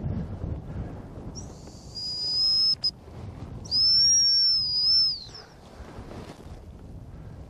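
Handler's dog whistle blown twice: a long steady blast with a short pip right after it, then a second long blast whose pitch wavers. Wind rumbles on the microphone at the start.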